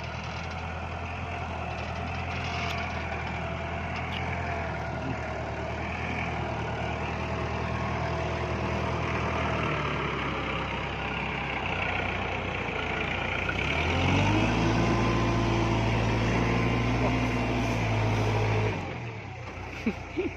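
Tractor diesel engine running steadily, then revved up about two-thirds of the way through, held at the higher speed for several seconds and dropping back sharply near the end.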